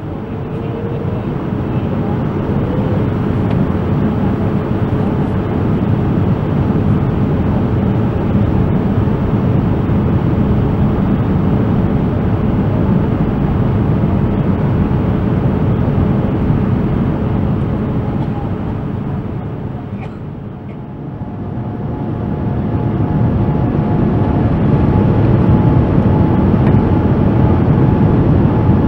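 Boeing 787-9 cabin noise on the approach to landing: the steady rumble of the Rolls-Royce Trent 1000 engines and the airflow, heard from inside the cabin. It dips briefly about 20 seconds in, then swells again with a faint steady tone.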